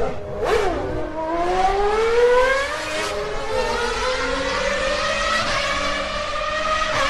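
High-revving racing engine accelerating, its pitch climbing steadily for about two seconds and then holding high.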